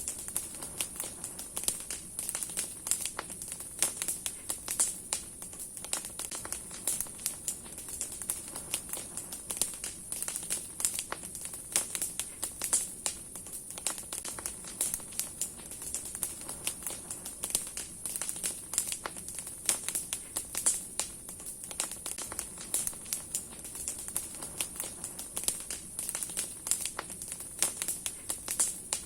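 Large wood bonfire burning, its branches crackling with many irregular sharp pops and snaps over a steady high hiss.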